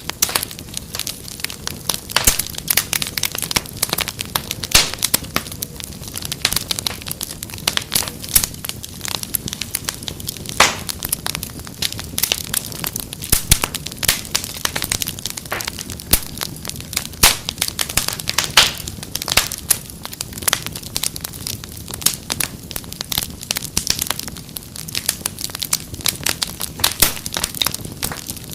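Wood fire crackling steadily, with dense irregular pops and snaps over a soft hiss.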